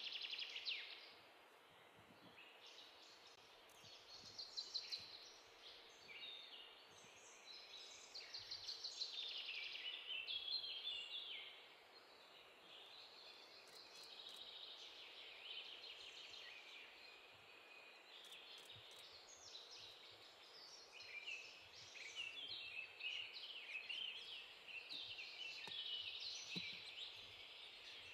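Several birds calling in bouts of rapid chattering, trilled notes, overlapping and faint, with short lulls between bouts.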